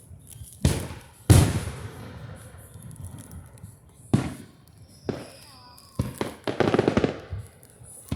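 Fireworks going off: a series of separate booms, the loudest about a second in, followed near the end by a rapid run of crackling bursts.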